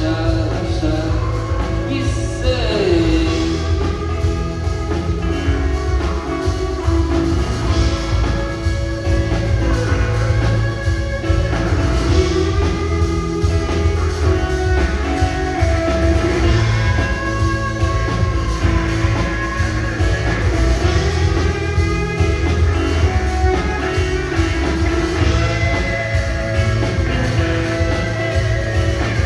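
A rock band playing live: electric guitars over a steady low end, with a voice singing.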